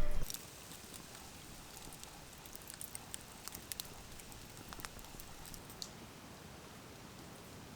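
Faint steady outdoor hiss with a scattered handful of small sharp clicks and ticks, a few seconds apart.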